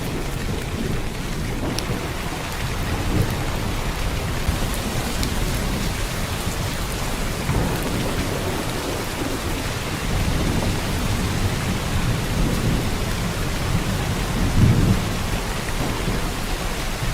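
Heavy downpour: a steady, dense hiss of rain. Low rumbles swell and fade underneath it a few times, the loudest near the end.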